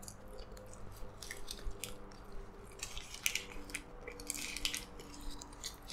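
Close-up chewing of a mouthful of double cheeseburger: irregular soft wet clicks and smacks. About four seconds in, the paper burger wrapper crinkles as the burger is shifted for another bite.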